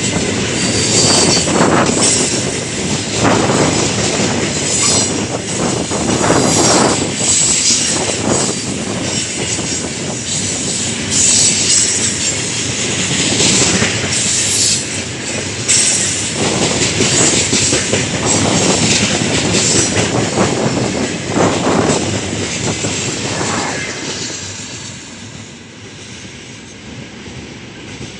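Freight train wagons rolling past: wheels clacking over rail joints with bouts of high wheel squeal. The noise fades near the end as the train goes by.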